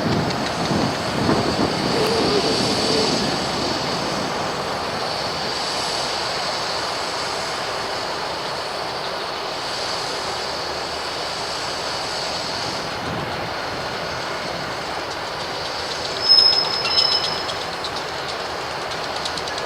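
Train rolling past on the rails: a steady rumble of wheels with clicking over the rail joints and a high wheel squeal. About sixteen seconds in comes a short, louder high squeal with rapid ticking.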